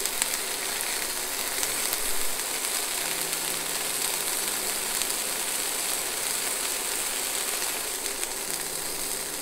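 Chicken breast sizzling in a nonstick frying pan as it finishes cooking, a steady crackling hiss.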